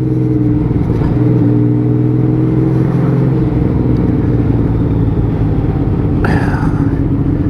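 Honda Valkyrie 1500's flat-six engine running steadily under way, its pitch easing slightly in the first few seconds and then holding. About six seconds in, a brief whoosh rises over it.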